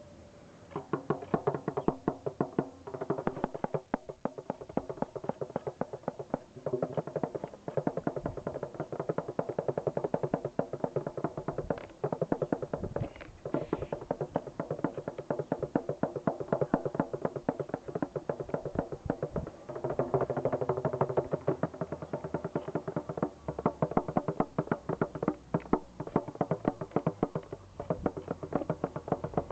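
A pitched drum played by hand in fast, continuous strokes, its ringing tones overlapping.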